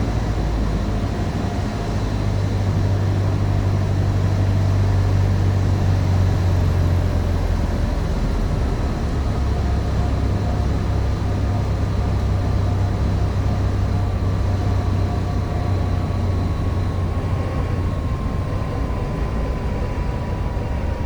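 Cessna 150's Continental O-200 engine and propeller running throttled back for landing: a steady low drone, with a faint thin tone that slowly falls in pitch through the second half.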